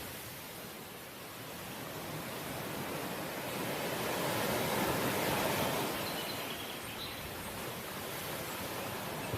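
Ocean waves washing on the shore as a steady rush, one wave swelling to its loudest about halfway through and then falling back.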